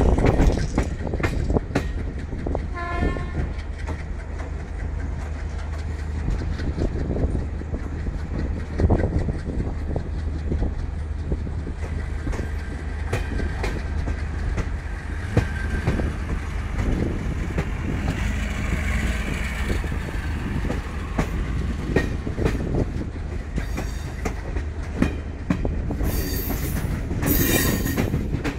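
Train running, heard from on board: a steady low rumble with the clatter of wheels over rail joints. A short horn sounds about three seconds in, and a high-pitched squeal of the wheels comes near the end.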